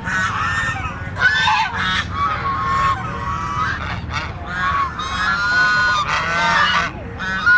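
A group of domestic waterfowl calling over one another in a continuous chorus of honking calls, several of them held steady for up to a second.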